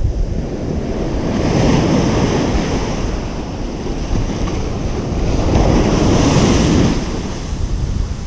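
Ocean surf washing onto a beach, swelling twice, about a second and a half in and again around six seconds. Underneath runs a steady low rumble of wind on the microphone.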